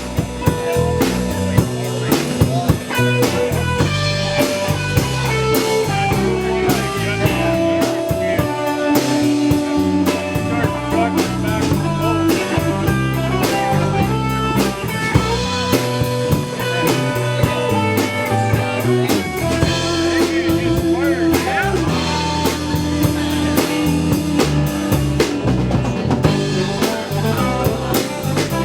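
Live band playing an instrumental passage with no vocals: drum kit keeping a steady beat with rimshots, bass, and guitar playing held melodic lines on top.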